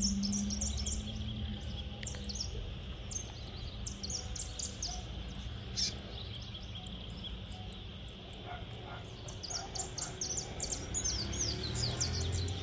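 Saffron finch singing: runs of quick, high chirps and short trills with sharp repeated notes, busiest at the start and again near the end, over a low steady rumble.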